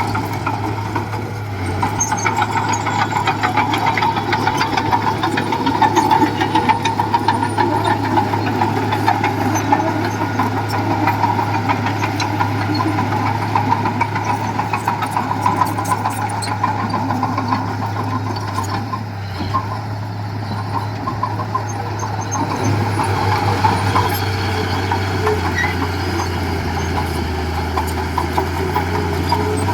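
Diesel engine of a small crawler bulldozer running steadily while working, with continuous metallic rattling and clatter over the engine hum; the engine note shifts lower about two-thirds of the way through.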